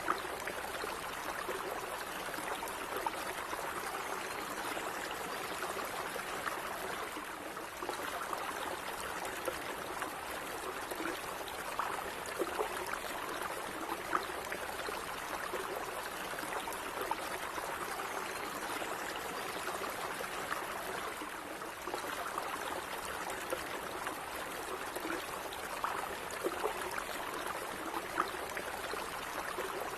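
Small stream of water running steadily, a continuous rush with frequent small splashes and trickles.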